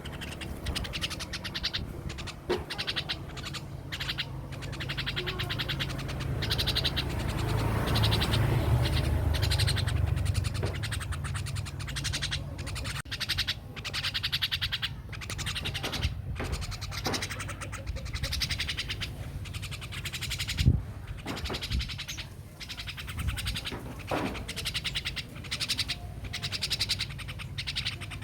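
A jalak, a pet starling, calling and chattering in many short, buzzy bursts, with a low rumble underneath for a few seconds in the first half.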